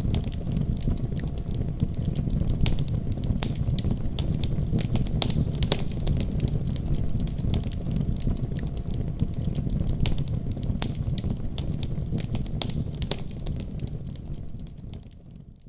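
Fire burning in a fireplace, crackling and popping with frequent sharp snaps over a steady low rumble of flame. The sound fades down near the end.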